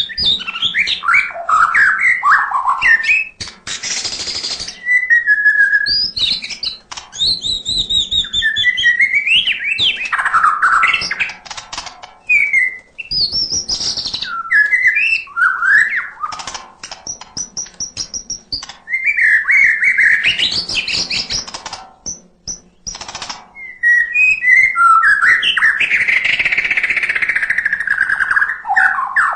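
White-rumped shama (murai batu) singing in full, non-stop song: a varied run of whistled phrases with quick rising and falling glides, mixed with dry clicking rattles and broken by a few short pauses.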